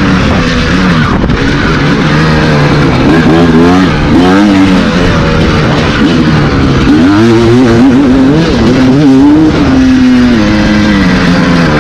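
Motocross bike engine revving hard and easing off over and over as it is ridden through ruts, its pitch climbing and falling every second or two.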